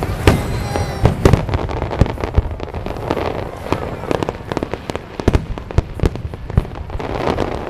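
Fireworks display: shells bursting one after another in an irregular run of sharp bangs, several a second.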